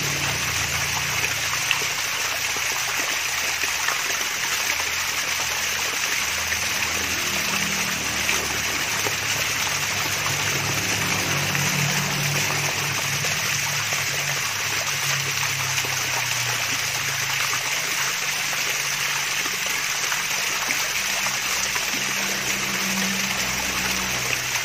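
Water of a small waterfall running and splashing steadily, a continuous trickling rush with low, irregular gurgles underneath.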